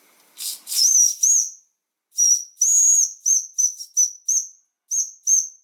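Small steam whistle on a TTB V2 model steam engine's boiler, blown in about a dozen short, high-pitched toots, one held a little longer about halfway through, after a brief hiss of steam at the start.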